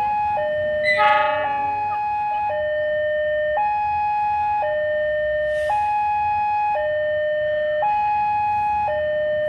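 Electronic two-tone warning alarm, alternating between a lower and a higher note about once a second. A brief louder sound with many overtones cuts in about a second in.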